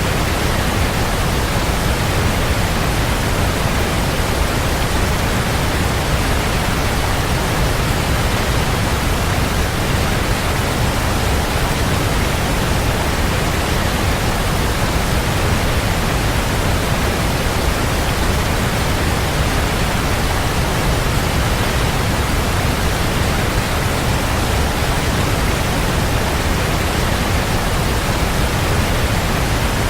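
Waterfall: a steady, even rush of falling water, heavy in the low end, with no change in level.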